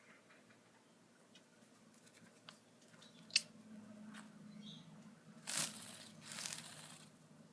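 Small sounds of a green-cheeked conure moving about: scattered light clicks, one sharp click a little after three seconds, a short faint chirp, and two brief rustling, tearing bursts about five and a half and six and a half seconds in.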